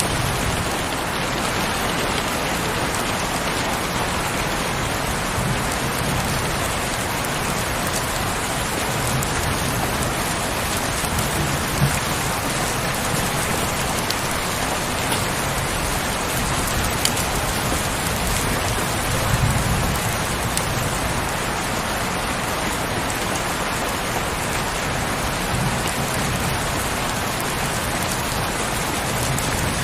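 Heavy rain falling steadily, a dense even patter with the odd sharper drop. A few low rumbles swell and fade underneath.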